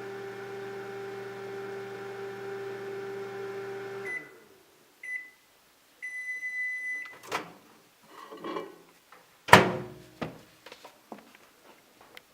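Microwave oven running with a steady hum that stops about four seconds in, followed by its beeps: two short ones and then one long one. After that come a sharp click, some rustling and a loud clunk, then a few small knocks.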